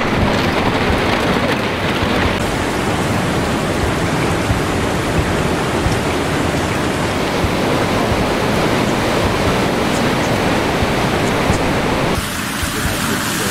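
Loud, steady rush of water, an even roar across all pitches whose character changes abruptly about two seconds in and again near the end.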